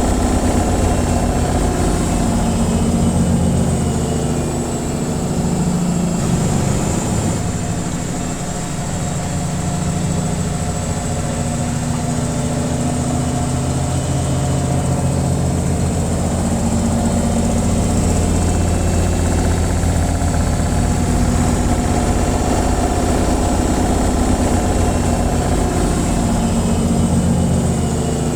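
Washing machine on its spin cycle: a steady motor-and-drum hum with a fast low throb, easing slightly about eight seconds in.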